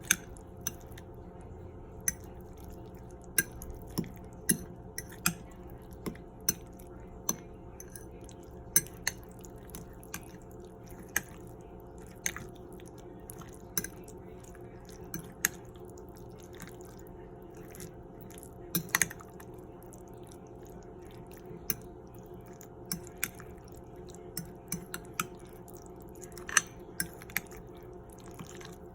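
A utensil stirring a wet tuna, egg and ham mixture in a bowl, with irregular sharp clicks against the bowl about once or twice a second over a faint steady hum.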